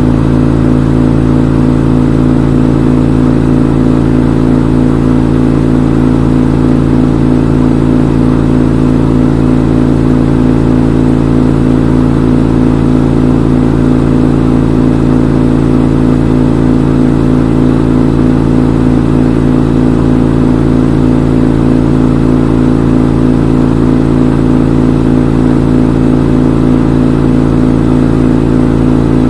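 Front-load washing machine in its spin cycle: the drum and motor spinning at a constant speed, a loud, steady hum with a strong low tone that does not change.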